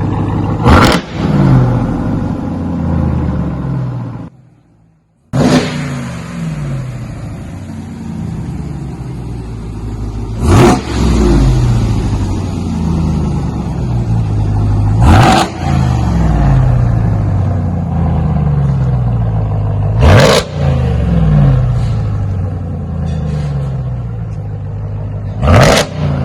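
Supercharged 6.2-litre V8 of a 2021 Ram TRX idling loud through 3-inch muffler delete pipes, blipped about five times: each rev rises sharply and falls back to idle. The sound briefly drops out about four seconds in.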